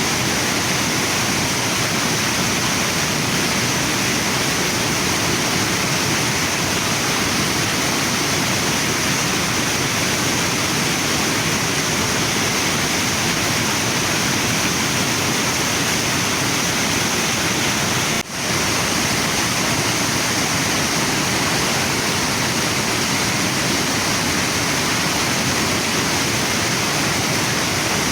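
Waterfall and river water rushing in a steady, even roar, with one brief dip in level about two-thirds of the way through.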